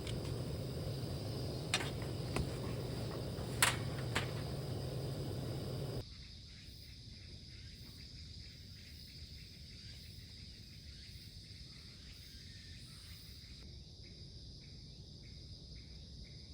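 Insects chirping steadily outdoors in a high, continuous trill. Over the first six seconds there is louder background noise with a few sharp clicks, then it cuts to quieter ambience where the insect sound goes on alone.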